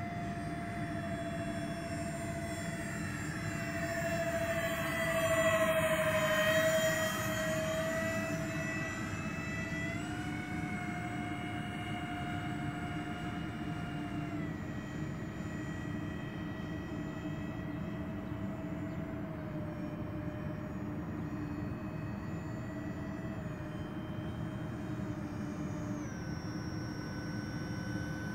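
Electric ducted fans of a large radio-controlled Airbus A330 model airliner in flight: a steady whine that steps up and down in pitch as the throttle changes, swelling louder as the model passes close about five seconds in.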